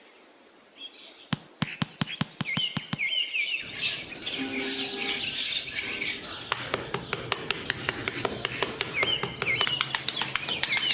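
A run of sharp clicks, then birds chirping in short, repeated falling calls over a steady background, with more clicks scattered through.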